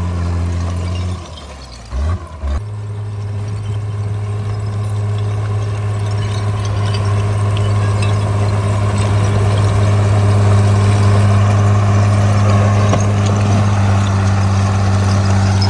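Caterpillar D3C bulldozer's diesel engine running steadily with a deep hum. It dips briefly a little over a second in, then comes back and grows gradually louder, with a rough rattling noise building over it.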